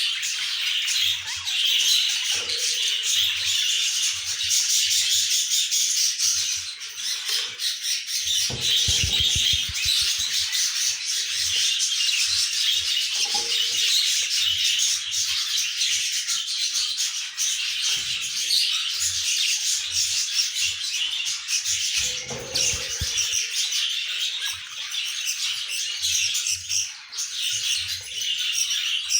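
Budgerigars chirping and chattering continuously, many high calls overlapping. A couple of brief low knocks come about nine seconds in and again about twenty-two seconds in.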